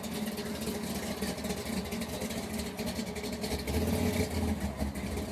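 A car engine running at low speed, a steady low hum that grows louder about three and a half seconds in.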